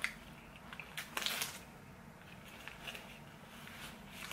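Close, soft eating sounds of a person chewing a cheeseburger: wet squishes and mouth smacks, with a louder cluster about a second in.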